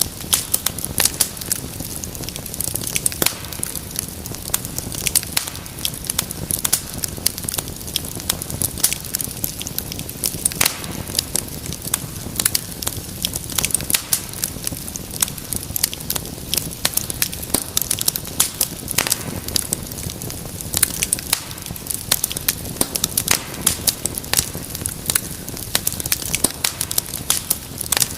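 Wood fire crackling steadily, with many irregular sharp pops and snaps over a low, even rumble of flame.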